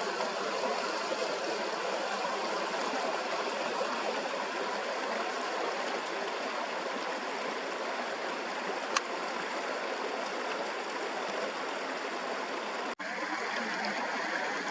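Steady rushing of a fast-flowing creek, with one short click about nine seconds in. The sound breaks off for an instant near thirteen seconds, then carries on slightly duller.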